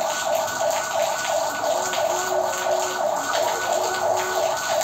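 Steady rain falling on a wet tiled yard, with small splashes and drips. Under it, a steady pulsing tone repeats about three times a second throughout.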